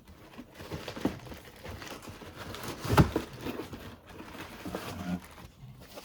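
Plastic packaging crinkling and rustling as a shower hose is handled and unpacked, with scattered small clicks and a louder knock about three seconds in.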